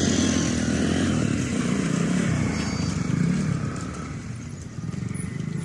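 Express train running past with a steady low rumble that eases about four seconds in and then picks up again.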